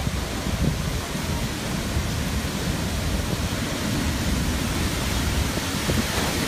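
Strong typhoon wind blowing steadily, with rough low buffeting of the wind against the microphone.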